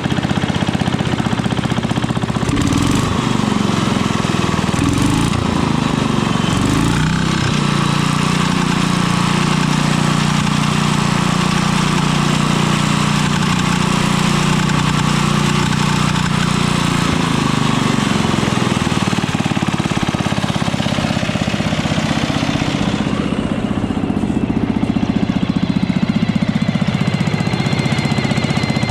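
Gasoline engine of an old engine-driven welding generator running steadily, its speed shifting up and down a few times.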